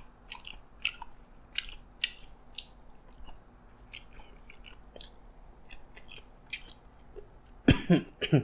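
Close-miked chewing of yee sang, the raw-fish salad with crunchy crackers and shredded vegetables, with crisp crunches about twice a second. Near the end comes a loud burp, in two pushes.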